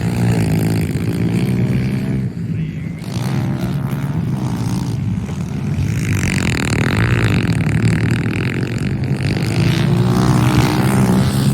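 Small pit bike engines running and revving, their pitch rising and falling, with a rush of noise for about three seconds midway.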